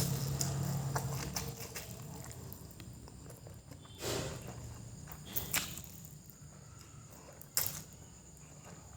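A person eating fried noodles: quiet chewing with a few short wet smacks or clicks, about four seconds in, twice around five and a half seconds, and once more near the end.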